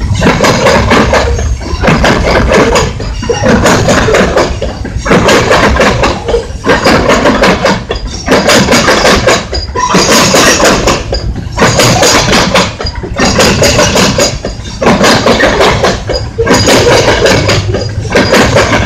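Freight cars of a Union Pacific train rolling past close by, their wheels clattering and clacking over the track. The clatter repeats about every one and a half seconds as each car goes by.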